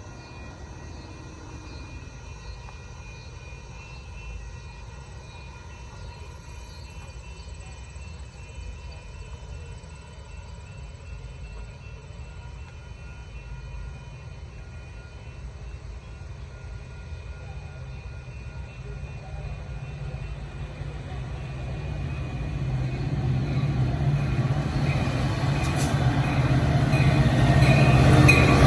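Metra diesel commuter train approaching: a steady low rumble that grows steadily louder over the last ten seconds as the train nears.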